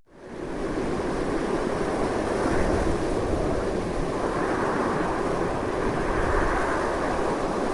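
Strong, steady wind rushing and roaring, with a low rumble beneath. It drops out almost to silence at the very start and swells back within half a second, then holds steady.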